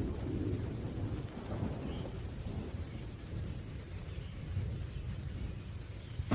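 Thunder rumbling low and slowly dying away under steady rain.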